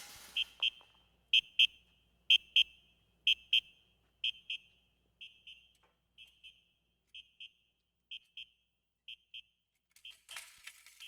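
A high electronic alarm beeping in pairs, about one pair a second, growing fainter over the first few seconds and then staying faint. A short burst of noise breaks in near the end.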